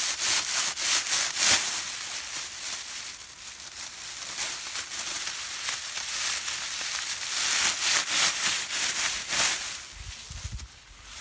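Repeated scraping and rubbing noises, a run of short rough strokes.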